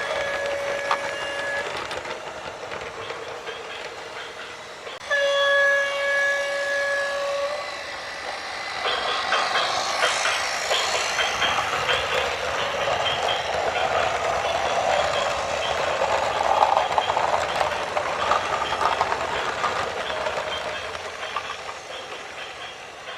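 A horn blows two long blasts of one steady pitch. Then loud rumbling with high metallic squeals builds and fades, in the way of a passing train.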